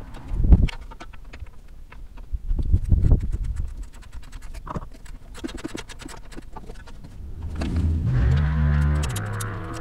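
Light clicks and a couple of low knocks of hand tools at work on the headlight mounting, then near the end a cow mooing once, a call of about two seconds.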